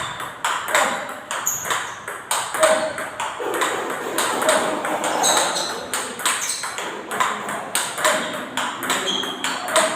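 Table tennis forehand topspin rally: the ball clicking off paddles faced with Hurricane rubber and bouncing on the table, a quick, irregular run of sharp pings several times a second.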